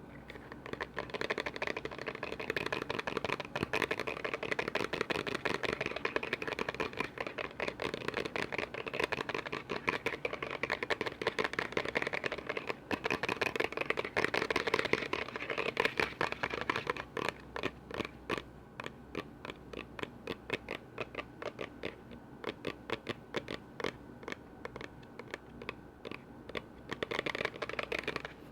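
Rapid tapping and scratching on container lids: a dense flurry of light strikes that, about sixteen seconds in, slows to separate taps about three a second.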